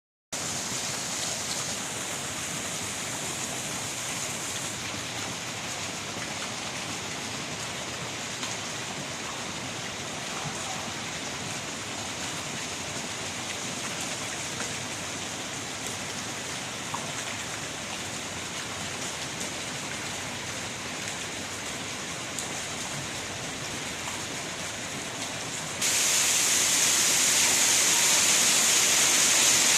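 Water-dance fountain jets spraying and splashing in a steady rush of falling water. About 26 seconds in the spray suddenly becomes louder and hissier, as the jets surge up.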